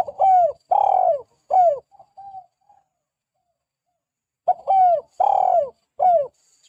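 Spotted dove cooing: two phrases about four seconds apart, each of three loud coos that rise briefly and then fall in pitch, the first phrase trailed by a few soft short notes.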